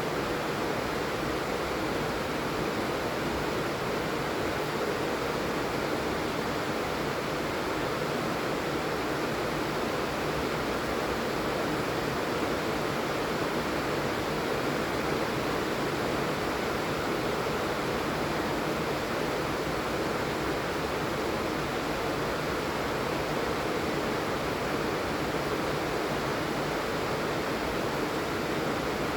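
Steady rain falling, an even hiss that holds unchanged with no single drops or knocks standing out.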